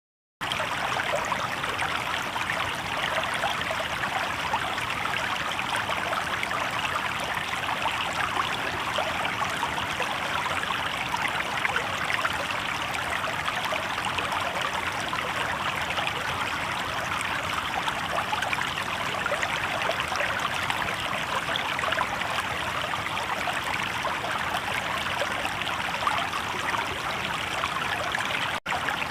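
River water babbling and rushing in a steady stream, starting abruptly about half a second in, with a momentary break near the end.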